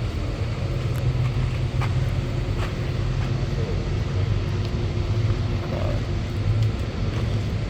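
A large engine running steadily at idle, a constant low rumble with a faint ticking over it.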